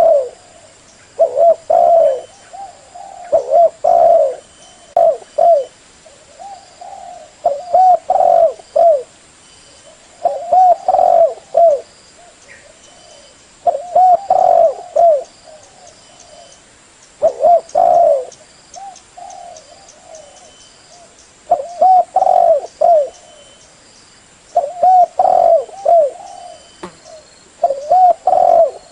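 Spotted dove cooing: about ten phrases of several low, hooting coos each, repeated every two to four seconds.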